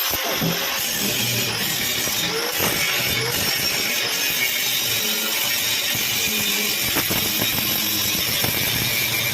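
Steady noise of a power tool working metal in panel-box fabrication, a continuous hiss with scattered clicks.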